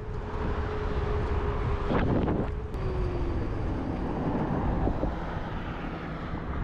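Electric dirt bike riding off, with wind buffeting the microphone and a thin motor whine that slides lower in pitch about halfway through. A brief rush of noise comes about two seconds in.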